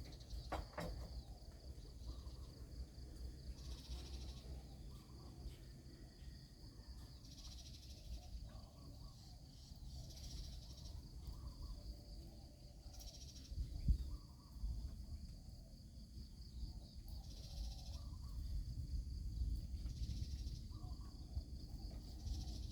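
Steady high-pitched insect chirring, with a soft swish about every three seconds from a broom sweeping the pavilion floor, and a single thump about halfway through.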